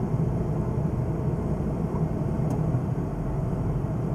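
Car engine idling steadily on a cold start, with the air-conditioning compressor engaged, heard from inside the cabin.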